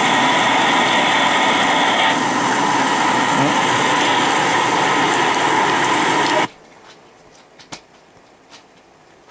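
Heavy wind-driven rain and wind, a loud steady rush, cutting off abruptly about six and a half seconds in. Then a quiet room with a few faint clicks.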